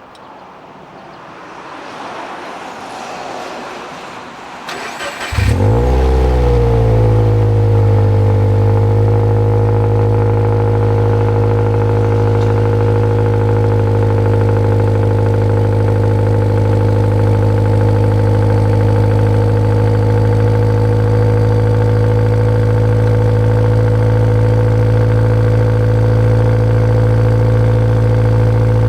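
Subaru Legacy B4 2.0GT's EJ20 turbocharged flat-four, breathing through an HKS ES Premium aftermarket exhaust, is cranked by the starter about five seconds in and catches. Its revs flare and then ease down over a few seconds into a steady idle.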